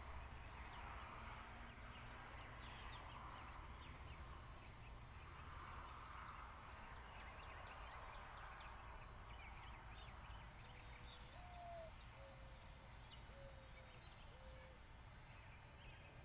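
Faint wild birdsong: scattered short high chirps from small birds throughout, a low cooing call of about five notes, the second one rising, starting about ten seconds in, and a short rising trill near the end, all over a soft rushing background.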